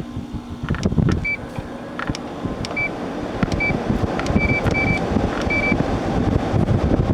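General Electric 12,000 BTU window air conditioner running just after switching on, its fan blowing steadily. About half a dozen short electronic beeps from its control panel come over it, along with a few clicks, as the settings are keyed in.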